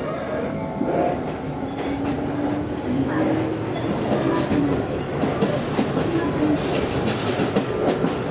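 Izu-Hakone Railway Series 3000 resistance-controlled electric train running between stations, heard inside the passenger car: steady rolling noise with the wheels clattering over the rails.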